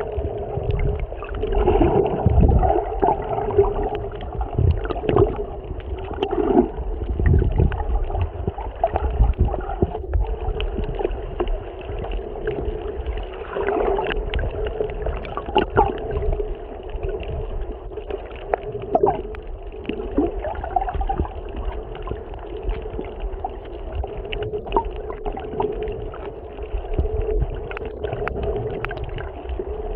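Muffled water gurgling and sloshing with a steady low hum and scattered small clicks, as heard through a waterproof camera housing in the sea.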